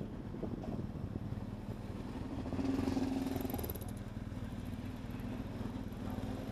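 Motorcycle engine running steadily, a little louder for about a second around the middle.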